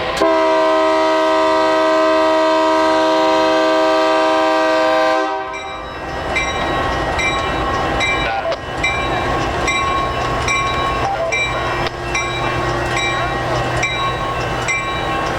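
Diesel locomotive horn sounding one long, loud multi-note chord for about five seconds, then the train running on with a steady rumble and a sharp ringing strike repeating about every 0.7 seconds.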